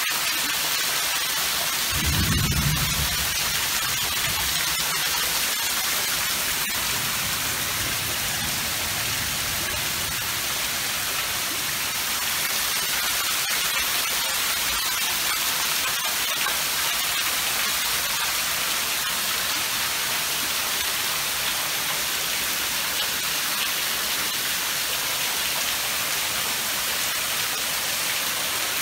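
Heavy rain pouring down into a swimming pool and onto its deck and screened enclosure, a steady hiss. A brief low rumble comes about two seconds in.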